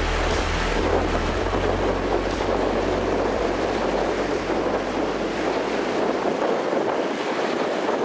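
Waves washing steadily while wind buffets the microphone; the low wind rumble dies away about two-thirds of the way through.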